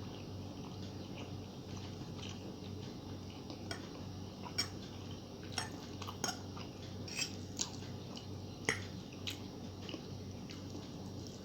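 Close-up eating sounds: a person chewing a mouthful of noodles, with a scatter of sharp clicks and smacks from about four to nine seconds in.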